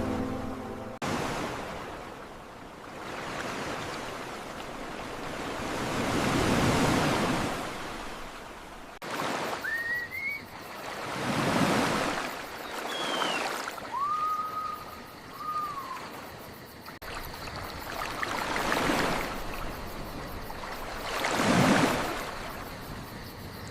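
Ocean waves surging and washing back, swelling and fading several times. A few short whistling calls sound around the middle.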